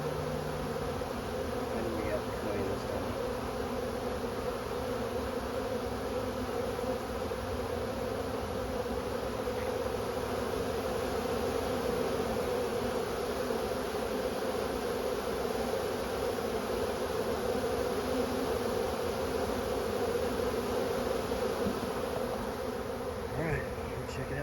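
Honeybee swarm buzzing: a dense, steady hum from a mass of bees just shaken into a hive box, which the beekeeper judges not very happy.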